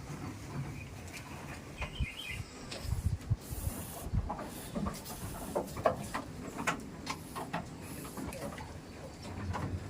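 Goat pen sounds: a string of short taps and knocks with a few low thumps, and a brief bird chirp about two seconds in.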